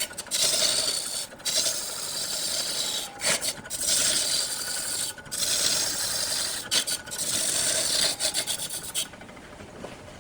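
Wood spinning on a lathe with a hand-held tool scraping its surface: a steady rasping hiss broken by brief gaps. It stops about nine seconds in, leaving a fainter steady sound.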